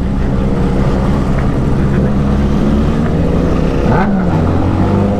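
Benelli motorcycle engine running steadily at low speed, with a brief rise and fall in pitch about four seconds in.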